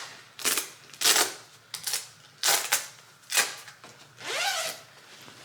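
A heavy textile motorcycle riding jacket rustling and swishing in about six sharp bursts as it is pulled on and shrugged into place. About four seconds in there is a brief pitched vocal sound that rises and falls.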